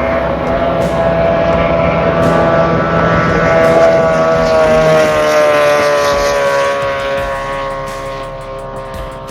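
A 6-litre V8 circuit race boat running at high revs as it passes. Its engine note is loudest about four seconds in, then drops gradually in pitch and fades as the boat moves away.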